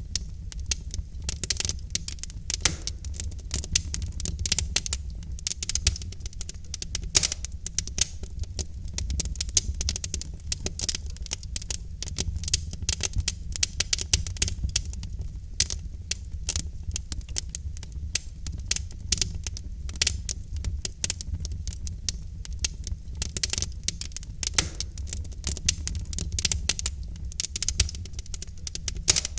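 Wood fire in a fireplace, logs burning with dense, irregular crackling and popping over a steady low rumble of the flames.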